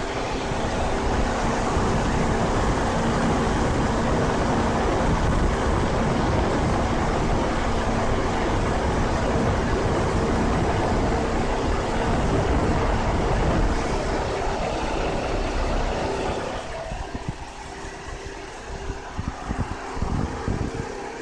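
Old car running, a steady loud rush of engine and air noise with a constant hum, dropping off sharply about three-quarters of the way through.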